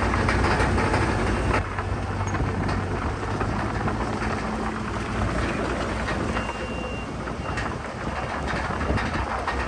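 Heavy diesel earthmoving machinery running, a bulldozer and dump truck at work, with a steady engine drone and the clanking rattle of crawler tracks. The noise drops a little about one and a half seconds in, and a short high beep sounds near the middle.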